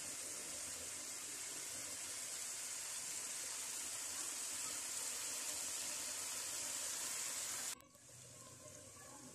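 Sliced bitter gourd frying in oil in a steel kadai: a steady, high-pitched sizzle. It cuts off suddenly about eight seconds in, leaving a much quieter background.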